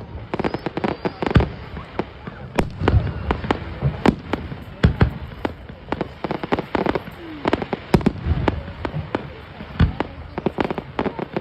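Aerial fireworks bursting in quick irregular succession, sharp bangs and crackles with booming reports.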